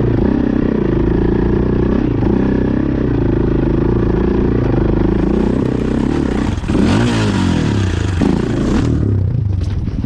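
Off-road motorcycle engine revving hard under load on a steep, stony, muddy climb, its pitch swinging up and down as the throttle is worked, with stones clattering and scraping under the tyres. The revs drop near the end.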